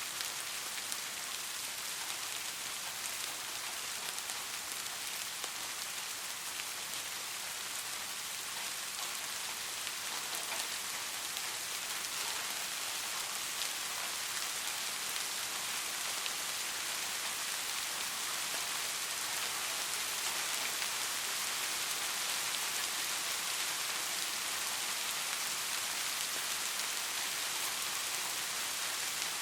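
Steady rain falling and pattering on the street, an even hiss with fine drop ticks throughout.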